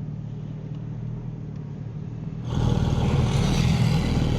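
Porsche 718 Spyder RS's flat-six engine running steadily, picked up by a microphone on the air intake. About two and a half seconds in the sound abruptly becomes louder and brighter.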